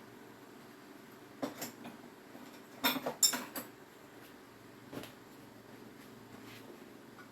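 Small hard parts being handled: a scatter of light clicks and clatters, loudest in a quick cluster about three seconds in, over a faint steady hum.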